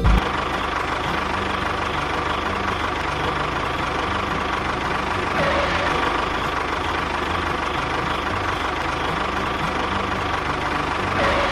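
Small motor of a DIY miniature machine running steadily, with a constant whine over a steady hum.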